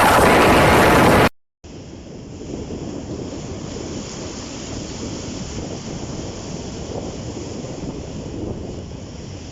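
Sea surf and wind on the microphone. A loud rush of wind noise cuts off about a second in, then after a brief gap a steadier, quieter wash of waves and wind follows.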